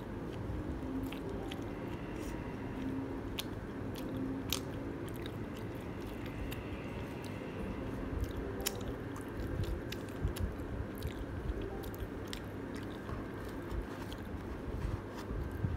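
Close-up chewing and biting of pan pizza crust, with scattered sharp mouth clicks and crunches over steady mastication.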